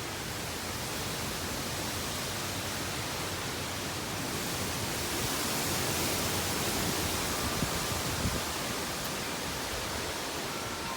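Strong wind blowing steadily as a dense rushing noise, swelling in a gust about halfway through.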